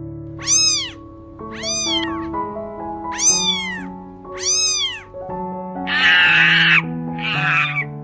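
Domestic cat meowing four times, each meow rising then falling in pitch, over background music with steady held notes. Near the end a few harsh, raspy calls from another animal take over.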